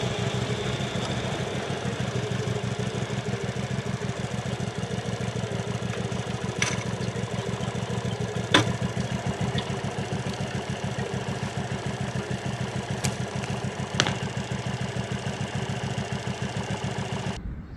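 Motorcycle engine idling with an even, rapid pulse, with a few sharp clicks over it, the loudest about eight and a half seconds in. The engine sound cuts off suddenly near the end.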